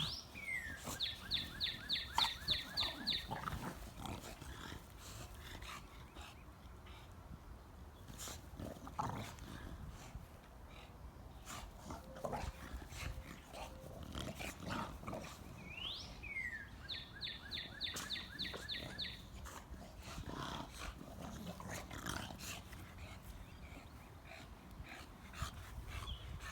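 A sleeping dog snoring softly. Twice, a bird sings in the background: a rising note followed by a quick run of about eight short notes, once near the start and again about two-thirds of the way through.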